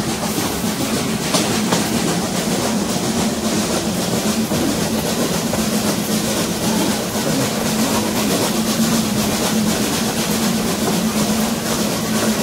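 Excursion train under way: a steady rumble of the passenger car's wheels on the rails, with a constant low hum.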